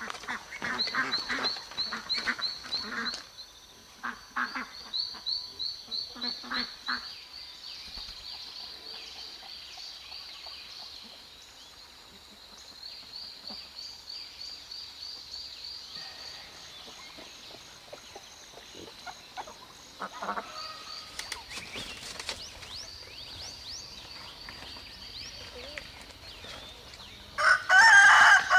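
Domestic fowl calling in pulses, then a rooster crowing loudly near the end. A rapid high chirping repeats in short trains throughout.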